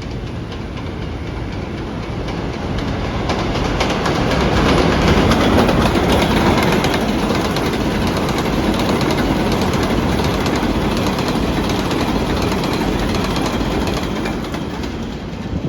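R188 subway train running by with a dense roar of wheels on rail and rapid clattering clicks. It grows louder about four seconds in and then stays steady.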